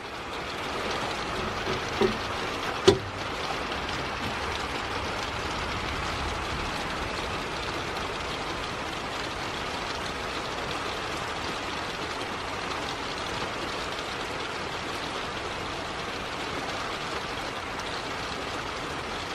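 Steady rain falling, an even hiss, with two short knocks about two and three seconds in.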